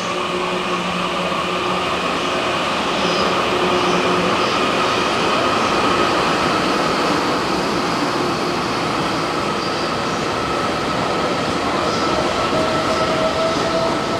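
E001 series Train Suite Shiki-shima pulling out of a station, its cars rolling past with a steady running noise from wheels and motors. A faint whine rises slowly near the end as the train picks up speed.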